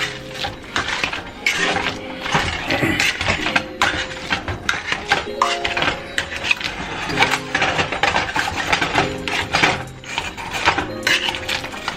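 A utensil knocks and scrapes in a pot in quick irregular strokes, mixing butter into mashed potatoes. Background music with held chords plays underneath.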